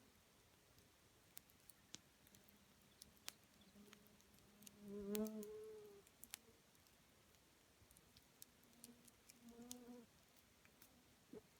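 Campfire burning quietly, with sparse sharp crackles and pops of burning wood. A short low tone with overtones sounds about halfway through and again, fainter, near the end; it is the loudest sound here.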